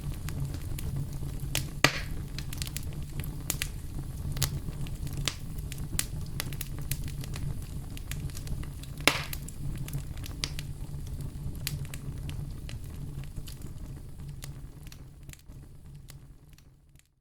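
Campfire crackling: burning wood gives scattered sharp pops, two louder ones about two seconds in and about nine seconds in, over a steady low rumble of the fire. It fades out over the last few seconds.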